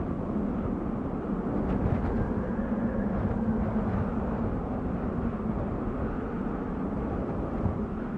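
Desert wind blowing steadily: a continuous low rushing rumble that swells and eases slightly.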